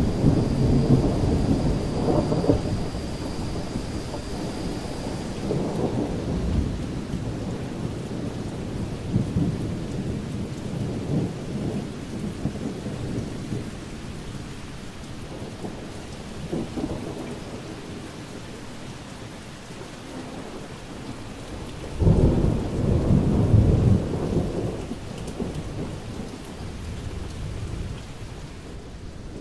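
Thunderstorm: steady rain with rolling thunder. A rumble at the start fades out over the first few seconds, and a sudden loud clap of thunder rumbles for a few seconds about three-quarters of the way through.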